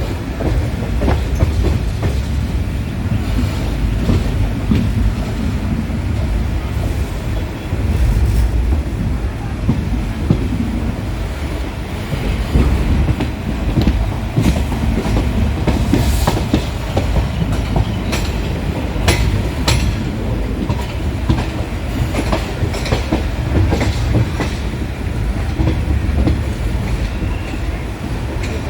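Passenger train running on the rails, with a steady heavy rumble and irregular clacks of the wheels over rail joints, sharpest about two-thirds of the way through.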